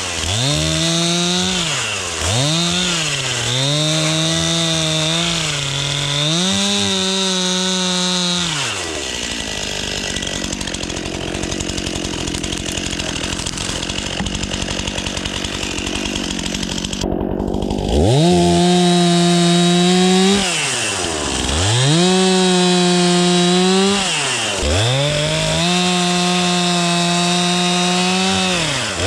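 Chainsaw running at high revs while cutting into a dead spruce for firewood. The engine note repeatedly sags under load and climbs back. In the middle it drops to a lower, rougher running for several seconds, then revs up again.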